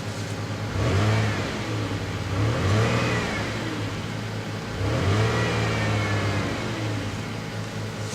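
1.8-litre four-cylinder car engine, warmed up after a cold start, idling and revved three times, each rev rising and falling back to idle.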